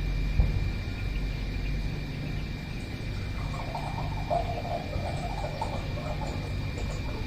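Outdoor nature ambience: a steady high tone and a low rumble, with a cluster of short animal calls from about three and a half to six and a half seconds in.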